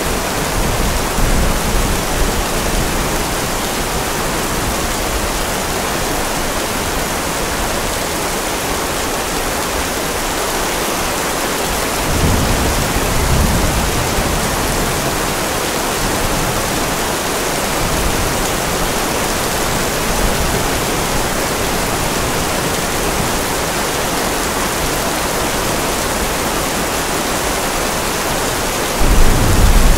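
Steady rain hiss. A low rumble of thunder comes about twelve seconds in, and a louder one near the end.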